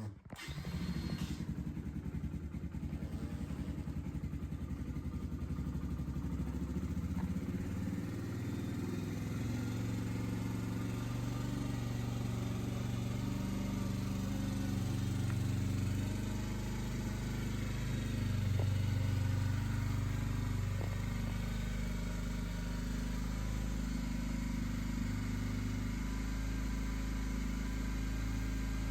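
Suzuki Marauder 125's single-cylinder four-stroke engine catching and then idling steadily.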